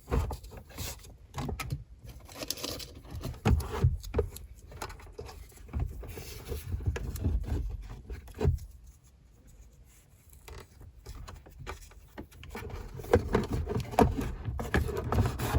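Hands handling the BMW 3 Series instrument cluster and its felt pads, with irregular plastic clicks, knocks and scrapes as the cluster is worked back into its opening in the dash to test the fit. There is a quieter stretch about halfway through, and the knocks pick up again near the end.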